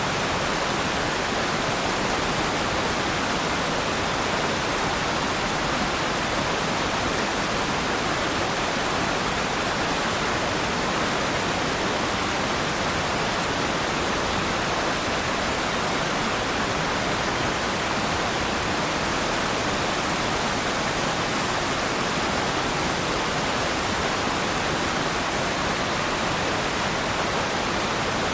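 Waterfall: water pouring and splashing in a steady, even rush without change.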